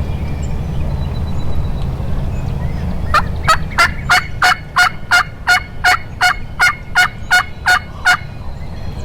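A turkey yelping: a run of about fifteen evenly spaced yelps, about three a second, starting about three seconds in, over a steady low rumble.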